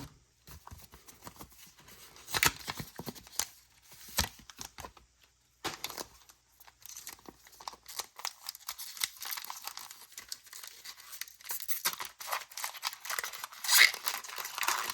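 Foil Pokémon booster pack being handled, crinkling, then torn open. The crinkling grows denser in the second half, with a sharp tearing burst near the end.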